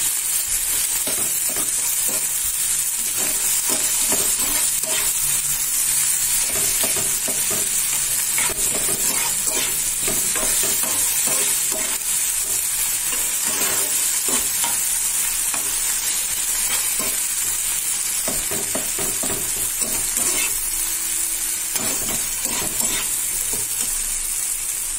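Chopped tomatoes, onions and ginger-garlic paste sizzling steadily in oil in a non-stick frying pan, while a flat spatula stirs and scrapes them across the pan in repeated short strokes.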